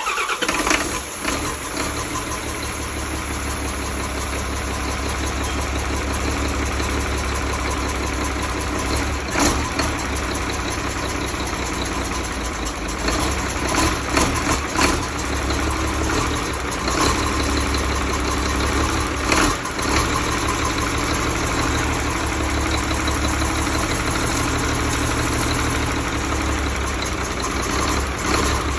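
A car engine running steadily at idle, with a few sharp clicks or knocks scattered through the middle.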